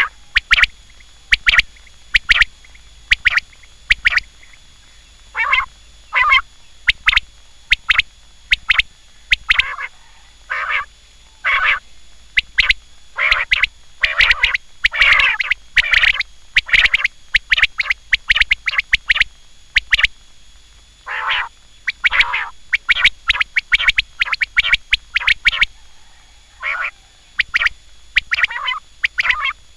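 Quail calling over and over: short, loud calls coming in quick clusters separated by brief pauses.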